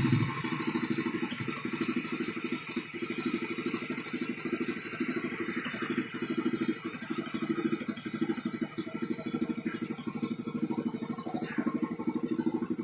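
1997 Honda Grand's single-cylinder four-stroke engine idling steadily through a newly fitted aftermarket exhaust, with an even pulsing beat.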